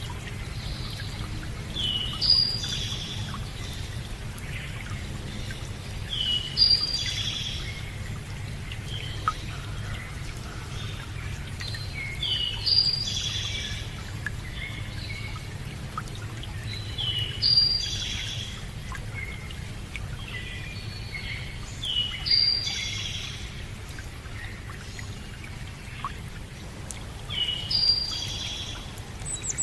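A songbird repeating the same short song phrase about every five seconds, over a steady rush of running water.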